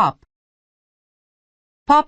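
Speech only: the end of one spoken English word, then about a second and a half of complete silence, then the start of the next word.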